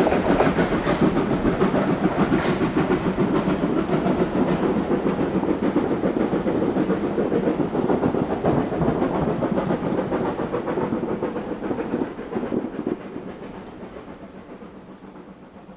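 Steam train running past, a dense rumble and clatter that fades away over the last few seconds.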